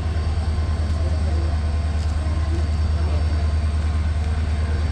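Steady low drone of a train, even in level throughout.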